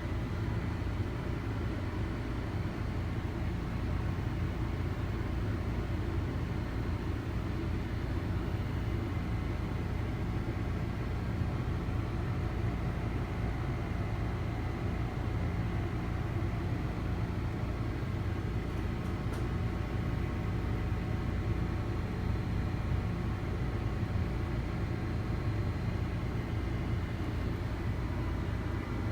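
Steady low rumbling noise that does not change, with faint thin steady tones above it.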